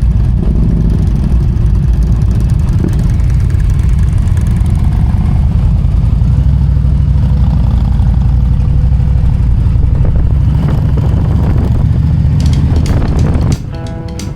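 Indian V-twin motorcycle engine running steadily and loudly, holding an even pitch. It cuts off near the end as music comes in.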